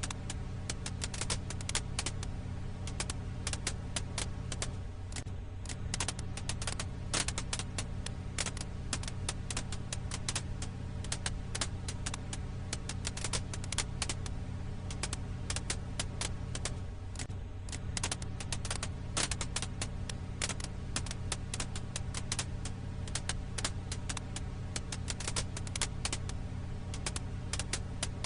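Campfire firewood crackling: a dense, irregular run of sharp snaps and pops over a steady low rumble.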